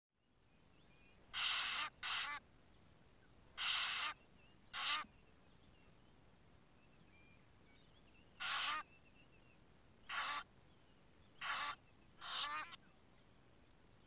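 A large bird calling loudly in short calls, mostly in close pairs, about eight in all. Smaller birds chirp faintly between the calls.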